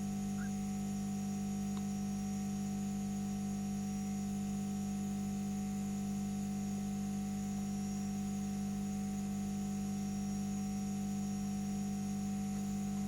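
Steady electrical hum with a faint high whine above it, unchanging throughout.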